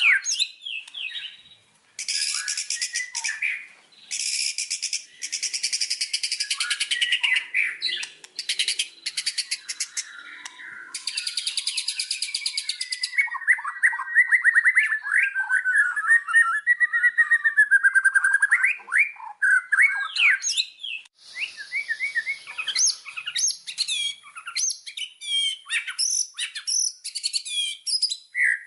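White-rumped shama singing a long, varied song. Dense rapid trills fill roughly the first half, then a run of clear gliding whistles, then quick varied notes.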